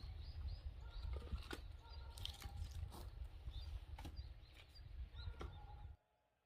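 Outdoor ambience: a low rumble with small birds chirping and a few short knocks, cutting off abruptly about six seconds in.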